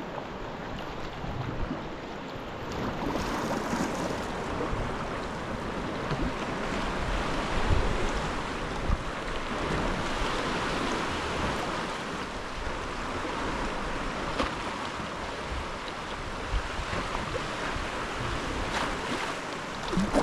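Sea water sloshing and splashing around a sea kayak under way, with wind rumbling on the microphone in gusts.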